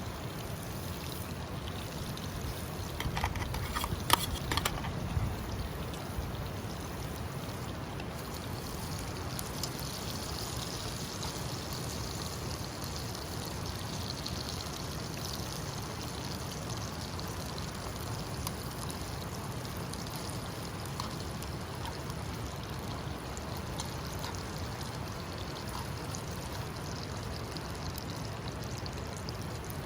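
Steady rushing of a flowing stream, with a few brief clicks about three to five seconds in.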